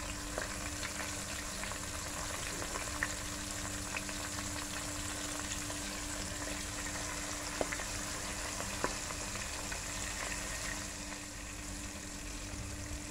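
Flour-coated lobster tails frying in hot oil in a pot: a steady sizzle with a few scattered pops and crackles.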